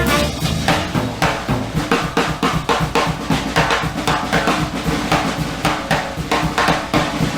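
Fast swing jazz at a Balboa tempo, in a drum break: drum kit strokes at about three and a half a second, bass drum and snare, with a low line carrying on underneath and the horns out.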